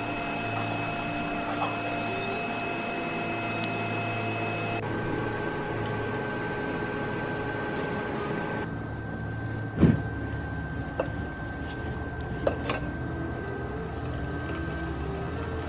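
A steady mechanical hum with several held tones, changing abruptly twice, with a sharp knock about ten seconds in and a few lighter clicks.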